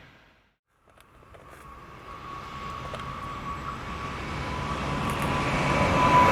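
An electric train approaching on the line, growing steadily louder, with a thin steady whine over the running noise. A moment of silence about half a second in comes before it.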